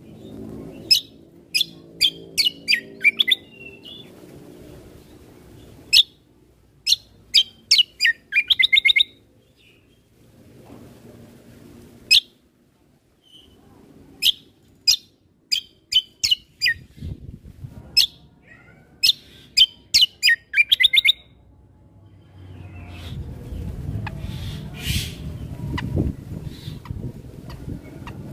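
Kecial kombo (cucak kombo) singing: bursts of sharp, sweeping whistled notes, some running into fast trills, separated by short pauses. Over roughly the last six seconds the singing stops and a low rumble of background noise rises.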